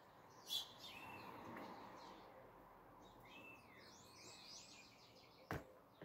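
Faint scattered bird calls: short arched chirps and a quick run of high notes, over a low steady background noise. A single sharp click about five and a half seconds in is the loudest sound.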